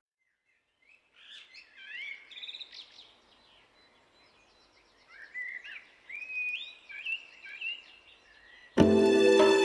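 Birds chirping and singing in two short spells of quick gliding calls over a faint hiss. Music comes in abruptly near the end.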